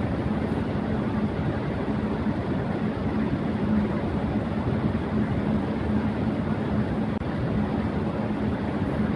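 Electric fan running steadily at high speed: a constant rush of air with a low hum.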